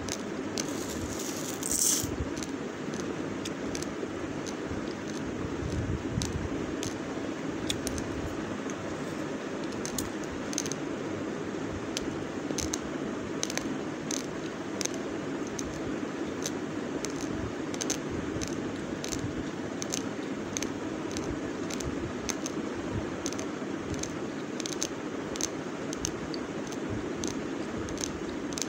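Raw basmati rice grains crunched between the teeth: sharp, irregular cracks about once or twice a second, with a louder crunch about two seconds in, over a steady low background noise.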